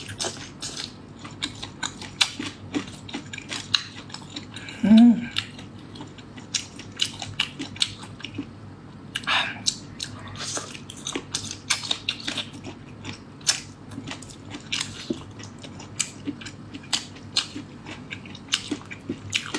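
Close-miked eating of lemon chicken feet: irregular bites and chewing, heard as many short, sharp, wet clicks and crunches. A brief voiced sound about five seconds in.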